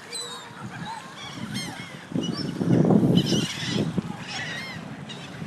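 A flock of waterfowl calling: many overlapping honks and quacks with higher, shorter bird calls over them, the clamour growing much louder about two seconds in.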